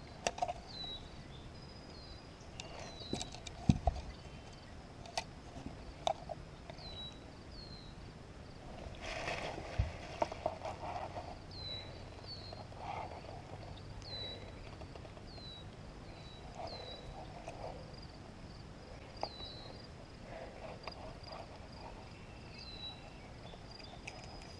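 A small bird chirping over and over, short high falling notes about once a second. A few sharp knocks sound in the first several seconds, the loudest about four seconds in.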